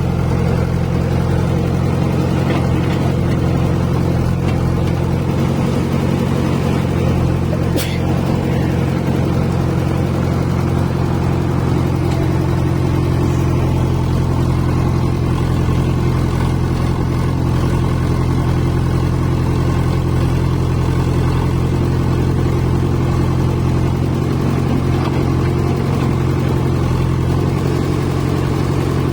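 Diesel engine of heavy machinery running steadily at an even speed, with one short sharp click about eight seconds in.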